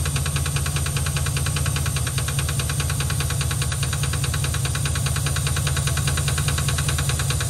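GMC Yukon V8 engine running with a valve cover off: a steady low running sound with a fast, even ticking from the exposed rocker arms and valvetrain.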